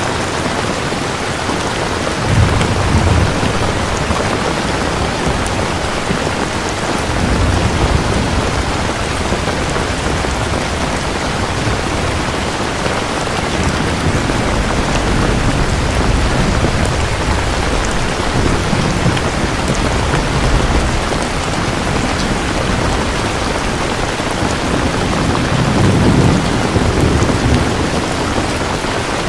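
Steady rain with thunder rumbling low in the background, swelling about three seconds in, again around seven seconds in, and once more near the end.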